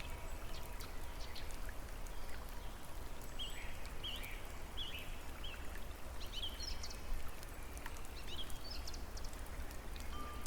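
A steady rush of running water, with scattered short bird chirps from about three seconds in.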